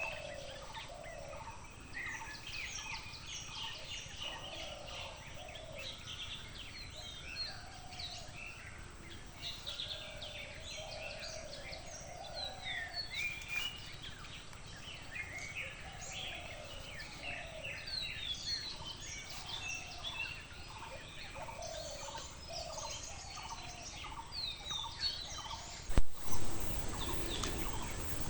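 A dense chorus of many birds chattering and calling over one another, with lower call notes under quick high chirps. Near the end a sudden loud knock is followed by low rumbling noise.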